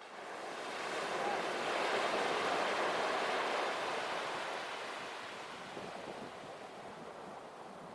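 Even rushing noise like wind or surf, swelling over the first two seconds and then slowly fading.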